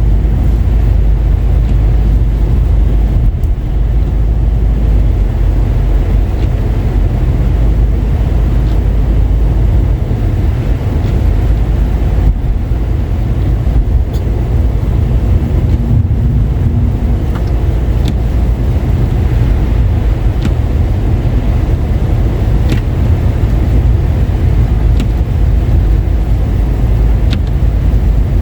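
A car driving on a wet, slushy road: a steady, loud, low rumble of tyre and road noise with the engine beneath it. A few light ticks come in the second half.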